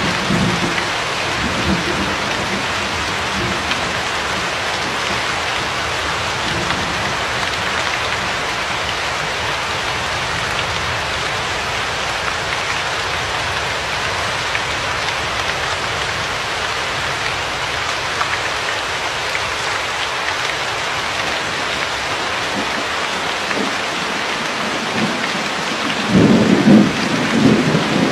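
Steady rain hiss with thunder: a low rumble in the first few seconds and a louder roll of thunder starting near the end.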